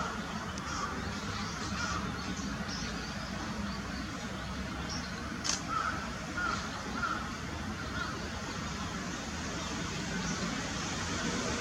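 Short bird calls repeating over a steady low hum of outdoor background noise, with one sharp click about five and a half seconds in.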